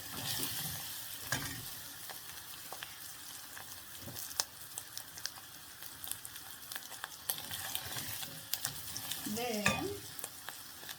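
Meat frying and sizzling in a pot with spices, a steady hiss, while a spoon stirs it, clicking and scraping against the pot now and then.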